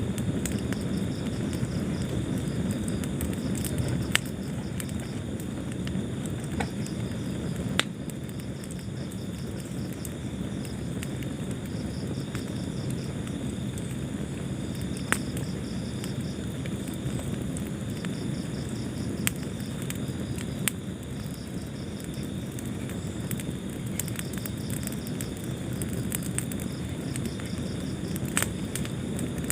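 Wood fire burning in a fireplace: a steady low rumble of flames with scattered crackles and a few sharp, louder pops.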